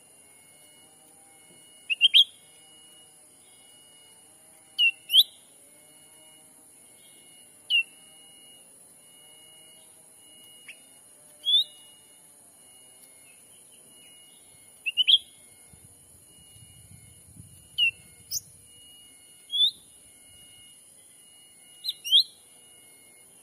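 Cucak ranting calls played as a bird-lure: short, sharp rising chirps, single or in quick pairs, every two to three seconds. They sit over a steady high-pitched whine.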